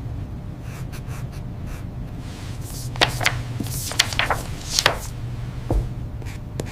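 A steady low hum with scattered sharp clicks and short scraping, rubbing sounds, clustered from about three to five seconds in.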